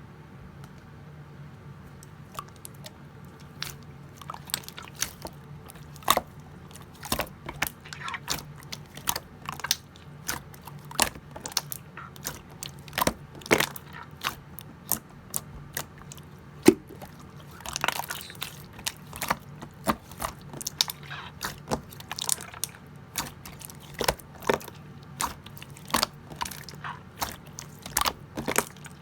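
Pink clear slime being squeezed and folded by hand, giving irregular sharp pops and clicks of trapped air, several a second, sparse at first and busier from a few seconds in. A steady low hum runs underneath.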